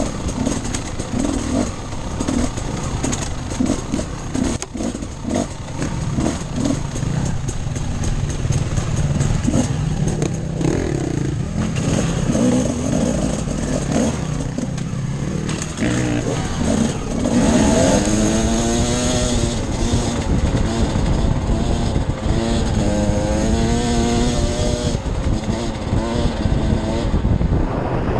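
Off-road dirt bike engine running with choppy, on-and-off throttle at low revs, then revving up a little over halfway through and holding higher revs, its pitch wavering as the throttle is worked.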